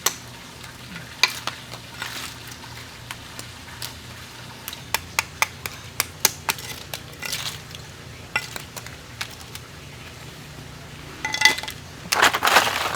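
Oyster shells clicking and knocking against each other as they are handled, in scattered single clicks, with a louder rattling rush near the end.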